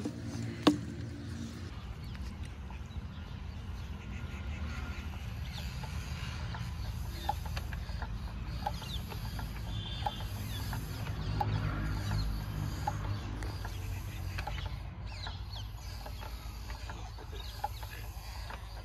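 Steady low rumble of a Lister-type stationary diesel engine running, with chickens clucking every second or so.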